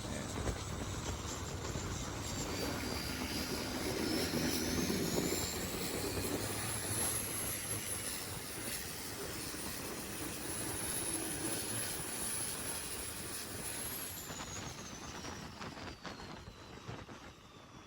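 Turbocharged diesel longtail racing boat engine running hard, with a high turbo whine that climbs over several seconds, holds, then slides down near the end as the engine sound fades away.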